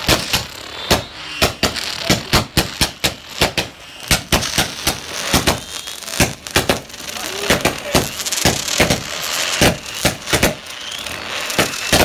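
Fireworks barrage going off: a rapid, irregular string of sharp bangs, several a second, over a steady hiss from the burning effects.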